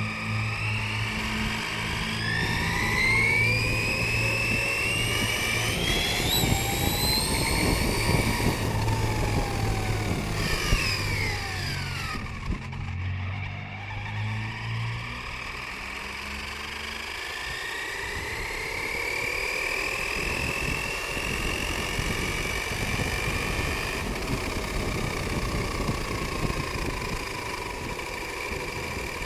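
Motor and drivetrain of a 1/10-scale VRX trophy truck RC car whining up and down in pitch as it speeds up and slows, over a continuous rattle and crunch from the truck running across rough ground.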